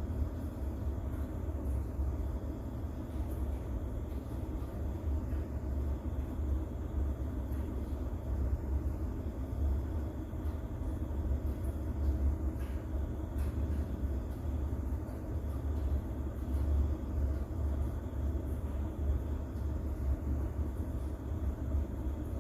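Steady rain ambience under a deep continuous rumble, with faint scattered drop ticks on top.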